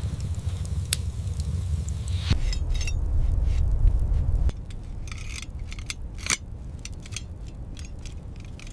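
Steady low wind rumble with scattered short crackles and crunches over it. The mix changes abruptly twice and gets quieter about halfway through.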